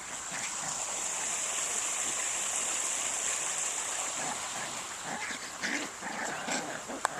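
Eight-week-old puppies at play, giving faint small growls and yips in the second half, over a steady high-pitched hiss. A sharp click comes just before the end.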